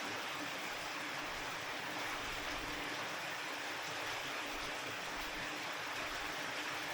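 Steady rain falling, an even hiss with no single drops or strikes standing out, over a faint steady low hum.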